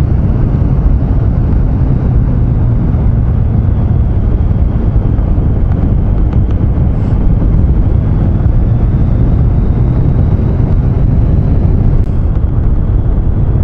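Triumph Street Triple 660's three-cylinder engine running steadily under heavy wind rush on the helmet microphone while riding over a broken, gravelly road surface.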